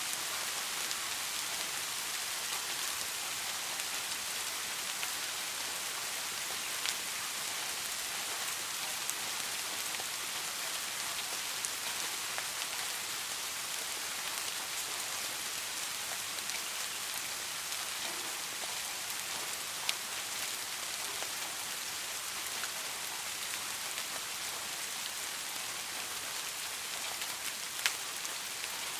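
Steady rain falling, an even hiss with scattered sharper drop ticks, two of them standing out near the end.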